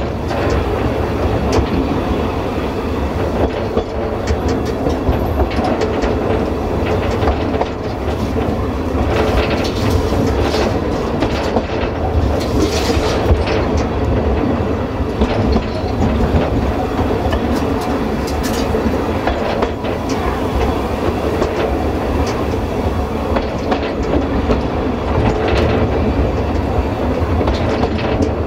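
Narrow-gauge railway carriage rolling along jointed track: a steady running rumble with wheels clicking over the rail joints, and a brief higher screech about halfway through.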